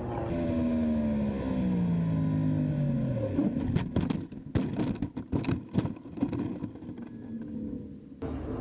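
Racing motorcycle engine passing at speed, its note falling steadily for about three seconds, followed by a run of sharp irregular knocks and scraping.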